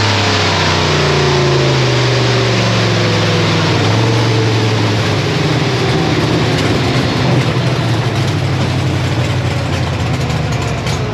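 Procharger-supercharged Pontiac Firebird's engine heard from inside the cabin, its pitch falling steadily as the car slows after a drag-strip pass, then running lower and choppier as it rolls off the track.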